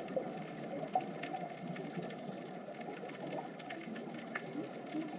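A soft, steady ambient background bed with a dense low murmur, small wavering tones and a few faint ticks.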